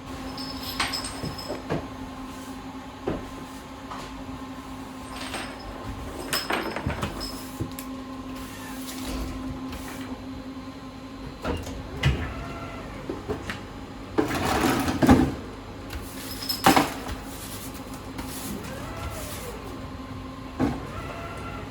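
Scattered knocks and clatter over a steady electrical hum in a tram, with a longer rough scrubbing or rustling noise about two-thirds of the way through.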